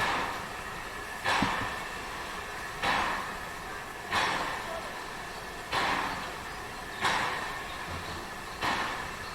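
A Harz narrow-gauge railway train moving slowly, with a regular sharp burst of sound about every one and a half seconds, each fading away quickly.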